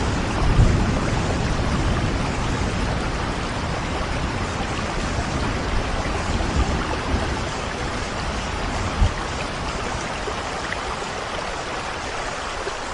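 Steady rain falling, with a low rumble of thunder dying away in the first second.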